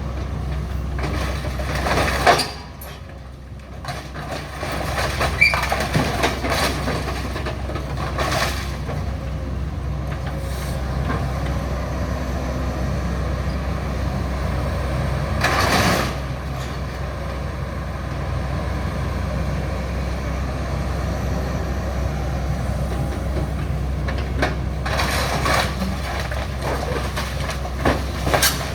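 Hydraulic demolition excavator running steadily, with scattered short crunches and knocks of demolition work.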